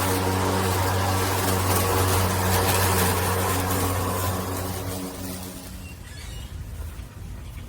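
Greenworks 80V brushless cordless electric lawn mower running with a steady hum, then shutting off about five seconds in.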